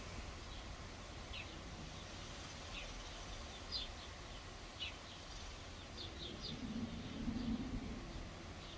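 Small birds chirping in the distance: short, high chirps every second or so, over a steady low outdoor background hum. A brief low hum rises about seven seconds in.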